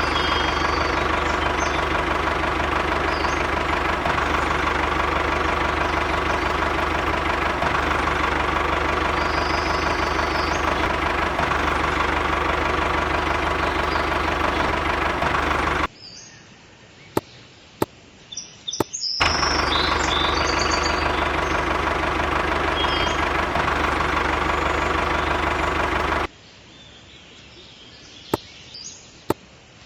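A small motor runs steadily, cuts off abruptly, starts again about three seconds later, then cuts off once more near the end. Birds chirp and a few sharp clicks come through in the gaps.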